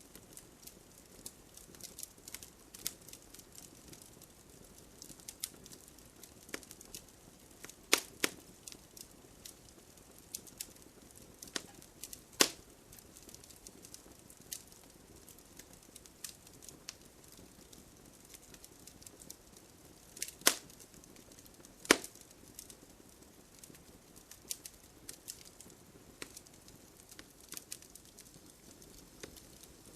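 Wood fire crackling in a fireplace: a steady patter of small snaps over a faint hiss, with four loud sharp pops standing out, about eight, twelve, twenty and twenty-two seconds in.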